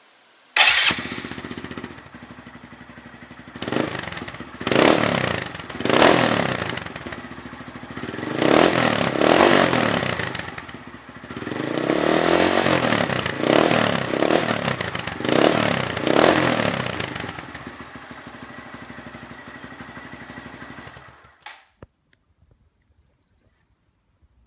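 2016 Honda Grom MSX125's single-cylinder engine, breathing through a full Yoshimura RS2 Mini exhaust, starting about half a second in and idling. The throttle is blipped about eight times, with one longer rev about halfway through, before the engine is switched off about 21 seconds in.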